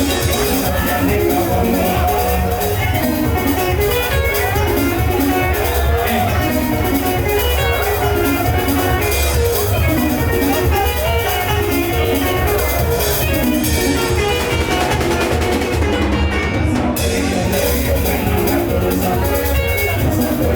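Live band music, instrumental: guitar lines over a drum kit with a steady beat and a heavy low end.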